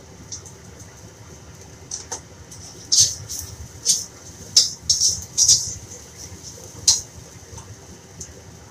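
Slotted metal spatula scraping and stirring chopped chilies in a wok, about eight quick strokes in the middle of the stretch, over a steady faint sizzle of frying.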